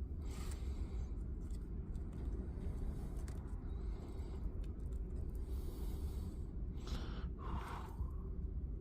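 Steady low hum throughout, with two short breath-like exhalations, one just after the start and a stronger one about seven seconds in.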